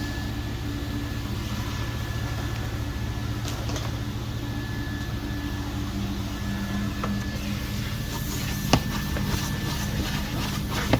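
Vacuum cleaner running steadily with a constant hum and a thin whine while it sucks dog hair out of a car's interior; one sharp knock about nine seconds in.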